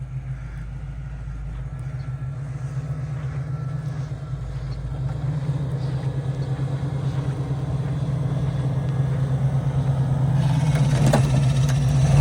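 1989 Chevy K5 Blazer's engine running steadily, warmed up, growing slowly louder, with a rushing noise joining near the end.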